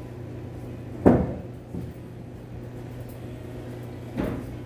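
Carom billiard balls knocking during three-cushion play: one sharp, loud clack about a second in, a softer knock shortly after, and another near the end, over a steady low hum.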